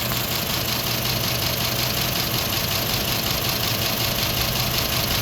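Gasoline engine of a 2010 Ford F-250 idling steadily, with a fast, even clatter. The noise is a little louder than normal and is not a valve or lifter tick; the owner takes it for a lack of lubrication that an oil change might improve.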